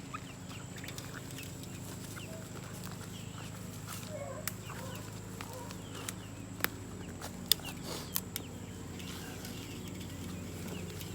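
Chickens clucking quietly, with a few sharp clicks near the middle.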